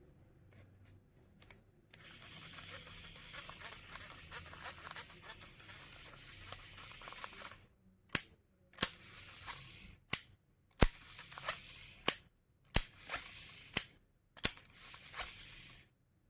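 Baitcast fishing reel being worked by hand: a steady whir for several seconds, then sharp mechanical clicks, mostly in pairs, each pair followed by about a second of whirring, repeating roughly every two seconds.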